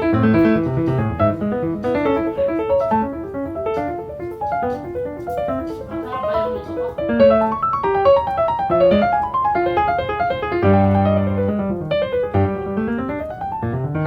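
Background piano music: a steady stream of quick notes, with a longer held chord a few seconds before the end.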